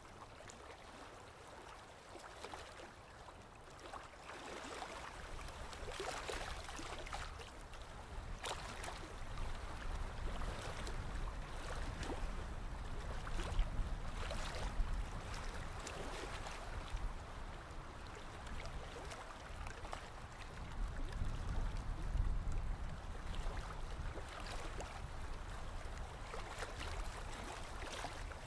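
Sea waves washing and lapping, with crackling fizz and a low rumble, rising and falling in slow surges that are loudest around the middle.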